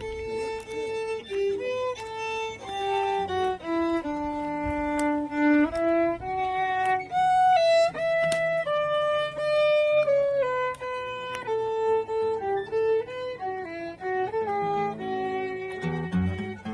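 Solo violin playing a melody, one note at a time, held notes shifting up and down in pitch.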